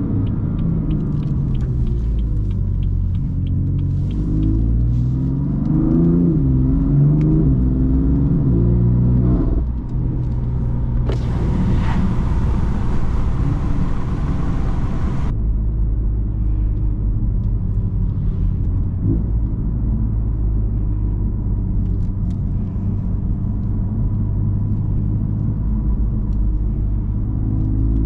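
BMW M3 F80's twin-turbo inline-six through an M Performance exhaust, its note rising under acceleration, then dropping briefly at a gear change or lift-off. A loud hiss follows for about four seconds, then the engine settles into a steady low drone while cruising.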